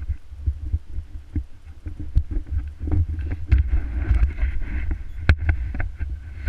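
Wind buffeting a camera microphone as a loud, uneven low rumble, with frequent sharp knocks and bumps from handling or riding.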